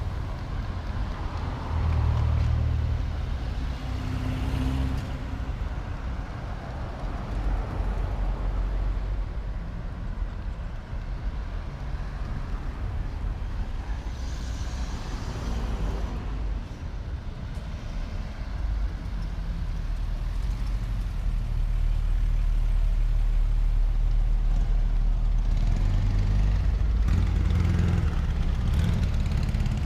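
Car engines running as vehicles drive past in a parade, a steady low rumble that grows louder and more even over the last several seconds.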